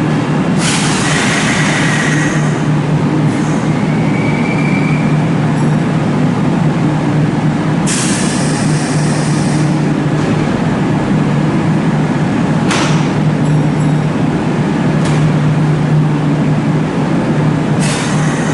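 Kintetsu 2800 series electric train at a station platform, with a steady low hum throughout and five short, sudden bursts of hiss.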